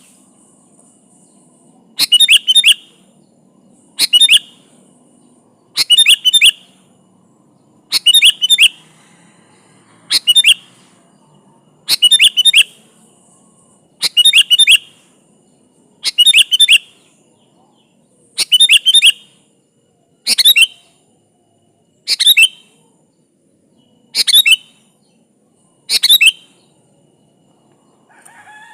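Sooty-headed bulbul (kutilang) singing short, bubbling phrases of quick falling whistled notes. The phrases repeat at an even pace of about one every two seconds.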